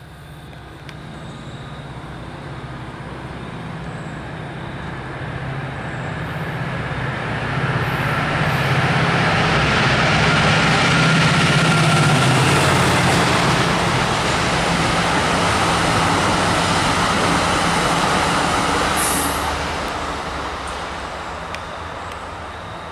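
A MARC passenger train passing at speed behind its diesel locomotive: engine drone and wheel-on-rail rumble grow over the first several seconds, stay loud through the middle, then die away as the train goes by.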